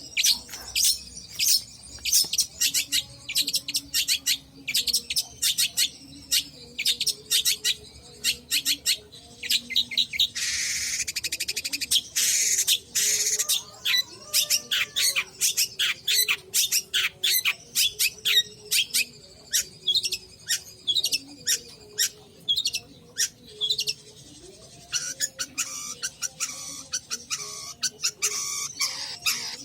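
Long-tailed shrike (cendet) singing actively: fast runs of sharp, high chirps and calls, broken about ten seconds in by a harsh, rasping stretch of two or three seconds.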